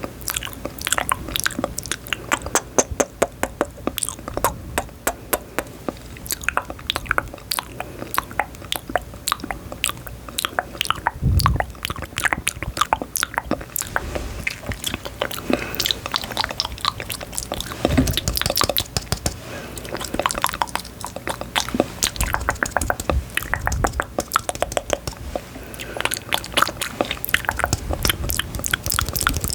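Close-miked ASMR mouth sounds: a dense, irregular run of crisp wet clicks and crackles, like chewing, with a few heavier low thumps around 11 and 18 seconds in.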